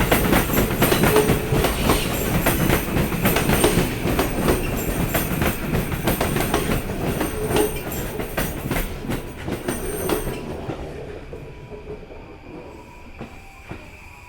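A train running over rail joints, making a rapid, loud series of clacks as the wheels strike each joint. The sound fades away about ten seconds in, leaving a faint steady background hum.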